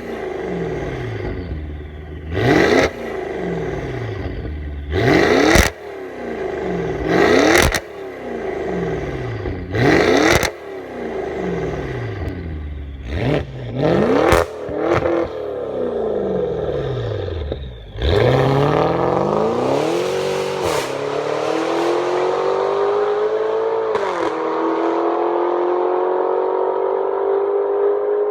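Maserati Quattroporte GTS twin-turbo V8 with aftermarket downpipes and mid-section exhaust, revved hard in a string of sharp blips that rise and fall back about every two and a half seconds. The later blips are shorter. About eighteen seconds in it changes to a long, slowly climbing engine note with two brief dips.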